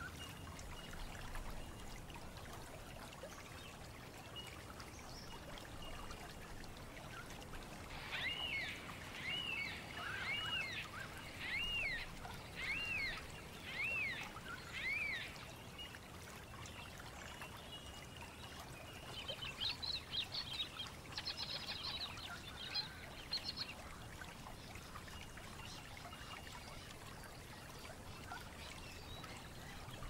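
Birds calling over a steady rushing hiss. About a quarter of the way in comes a run of about eight clear arched notes, roughly one a second. Later there are a few seconds of quick, higher chattering notes.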